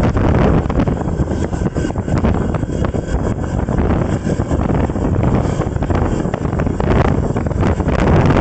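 Wind buffeting the microphone: a loud, steady low rumble whose level flutters with the gusts.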